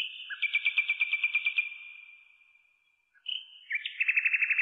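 A songbird singing two phrases, each a short opening note followed by a rapid trill of high notes. The first trill starts near the beginning and fades out by about the halfway point. The second starts about a second later and is faster.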